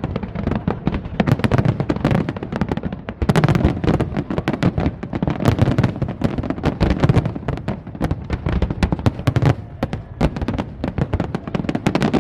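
Fireworks display: a dense, continuous barrage of bangs and crackling, with the low booms of the shells running underneath.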